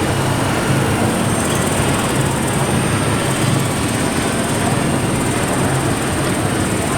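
Steady engine-like rumble of large-scale RC construction machinery working, over a hall's background noise, with a thin high whine held steady above it.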